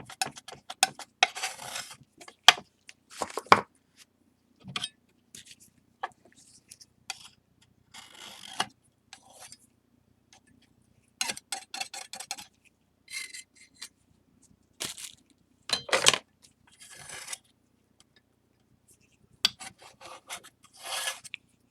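A tool scraping and rubbing on a tray, mixing flour and water into a stiff paste, in short strokes with sharp taps and brief pauses between them.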